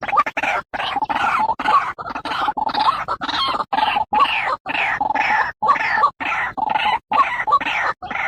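White-breasted waterhen (ruak-ruak) call played as a bird lure: a fast run of short, repeated calls, about three a second, broken by brief sudden gaps.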